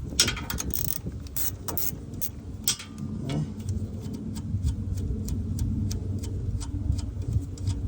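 Hand ratchet clicking in a run of quick, evenly spaced clicks as an AC compressor mounting nut is backed off, over a steady low hum.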